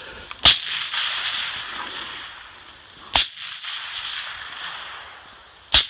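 Three gunshots about two and a half seconds apart, each followed by a long, fading echo.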